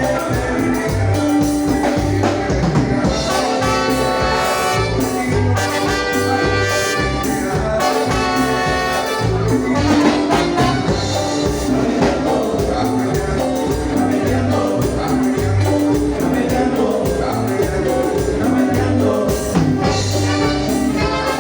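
Latin tropical dance music with a brass section of trumpets and trombone over a steady, regular bass beat; the horn lines stand out most from about three to nine seconds in.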